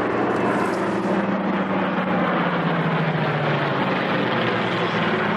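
Propeller aircraft's piston engines droning steadily, the pitch sinking slightly through the middle as the aircraft moves past.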